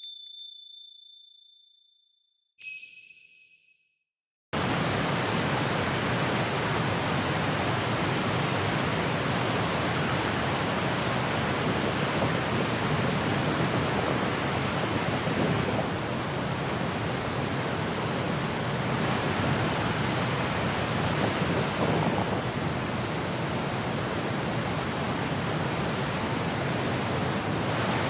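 A chime rings and fades, and a second, brighter chime rings briefly about two and a half seconds in. From about four and a half seconds in comes the steady, even rush of a waterfall.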